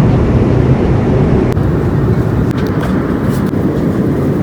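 Steady rumble of airliner cabin noise, the engines and airflow heard from inside the passenger cabin.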